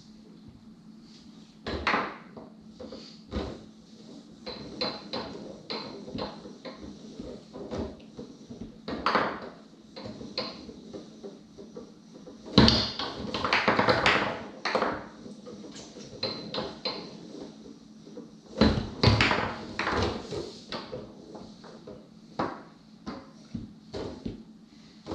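Foosball being played on a Tornado table: the ball clacking against the men and the table walls in quick runs of sharp knocks, with louder bangs of strikes and shots about two, thirteen and nineteen seconds in.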